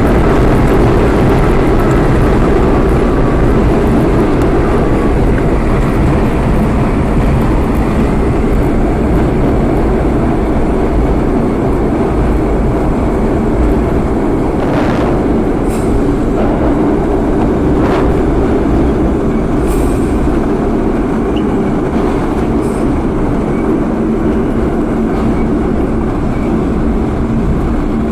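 R32 subway train running along the track: a steady, loud rumble of wheels and running gear, with a few sharp clicks about halfway through.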